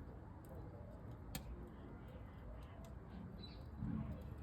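Wood fire crackling inside a small camping stove, with scattered sharp pops over a faint steady background and a soft low bump near the end.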